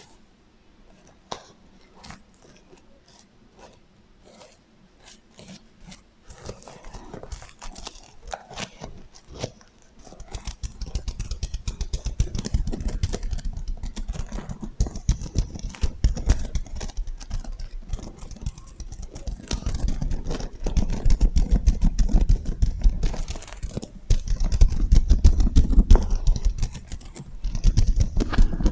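Sequin-covered pillow being handled for ASMR with an echo effect on the sound. At first there are separate light taps and clicks on the sequins; about a third of the way in it turns to dense, continuous scratching and rubbing, much louder and heavier.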